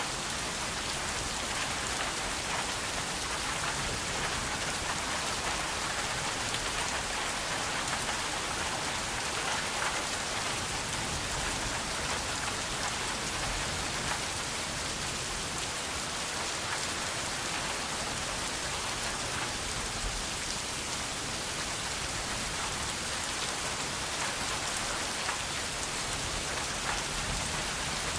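Steady rain falling: an even hiss with scattered drop impacts, unchanging throughout.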